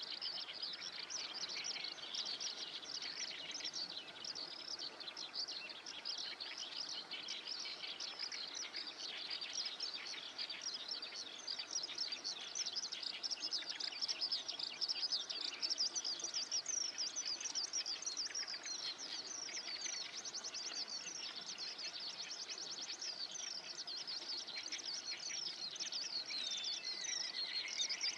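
Many small songbirds chirping and singing at once: a dense, continuous chorus of rapid, high, overlapping notes.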